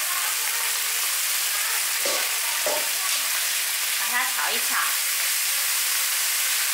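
Yellow soybean sprouts and fried tofu sizzling steadily in hot oil in a frying pan, dry-fried without water at the start, with a spatula stirring them near the end.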